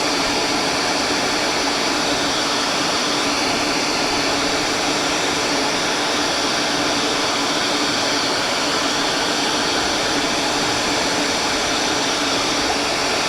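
Electric woodworking shop machine running steadily: a constant whirring motor noise with a faint steady hum.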